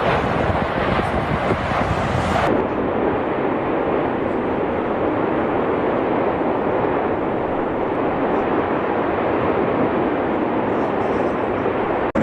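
Steady, loud roar of an erupting volcano. About two and a half seconds in, the sound changes abruptly and becomes duller.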